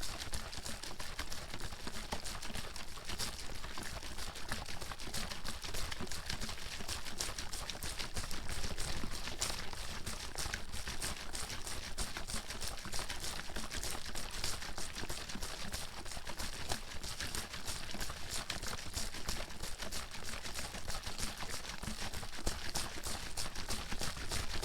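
Water sloshing and splashing inside a bottle being shaken hard and continuously, a steady stream of quick splashes and knocks without a break.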